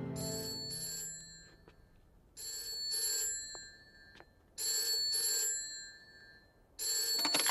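Telephone bell ringing in a phone booth, four rings about two seconds apart, each a bright metallic ring about a second long.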